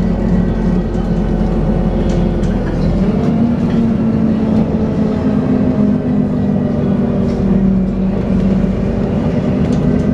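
Dennis Trident 2 double-decker bus running under way, with the steady vacuum-cleaner-like whine that bus enthusiasts call "hoovering". The pitch steps up about three seconds in, then holds.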